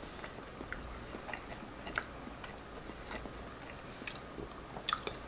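Faint mouth sounds of a person chewing a soft, moist pancake snack: scattered small wet clicks, a couple of them a little sharper near the end.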